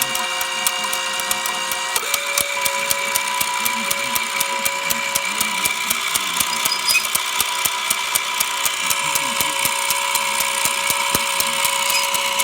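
Channel-selection (autotune) mechanism of a Collins R-391/URR receiver running: rapid, steady ratchet-like clicking. It is heard over steady whistle tones from the receiver, which step to a new pitch about two seconds in.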